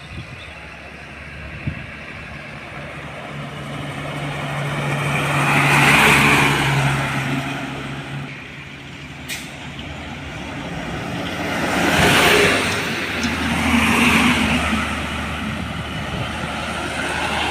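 Heavy trucks passing on a road one after another, their engine and tyre noise swelling and fading: loudest about 6 seconds in and again twice near the end. There is a brief sharp click about 9 seconds in.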